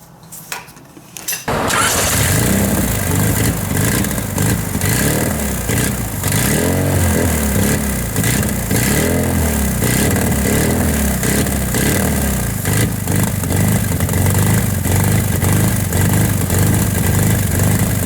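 Honda D16Z6 1.6-litre four-cylinder engine starting for the first time after two burnt valves were replaced: after a few clicks it catches about a second and a half in, is blipped a few times, then runs steadily on all four cylinders.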